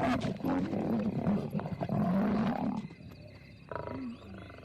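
Lions growling in a face-off between two males and a young lioness, loud and rough for the first three seconds, then dying down to quieter sounds.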